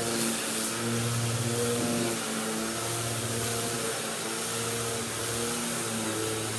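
Vacuum cleaner running steadily, a continuous motor whir and rush of air, with held low tones that step up and down in pitch every second or so.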